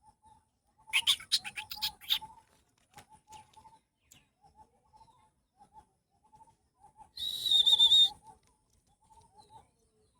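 Pet birds calling: soft short calls repeat throughout, a quick run of sharp clicks comes about a second in, and one loud, high, wavering call lasts about a second near 7 s in.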